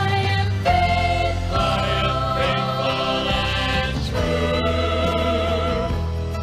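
Gospel vocal group singing long held notes in harmony over a steady instrumental accompaniment, moving to new chords about a second in and again around four seconds.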